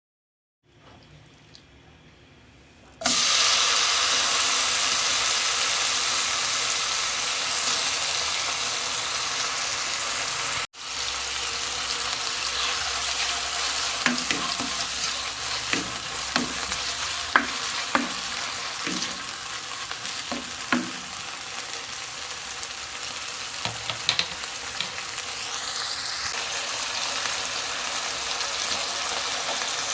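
Food going into hot oil in a pan, with a sudden loud sizzle about three seconds in that keeps on steadily. Through the middle, a utensil clicks and scrapes against the pan as the food is stirred.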